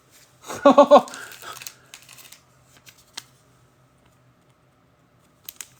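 A short wordless vocal exclamation about a second in, then faint rustling and a few small sharp clicks from trading cards and pack wrappers being handled.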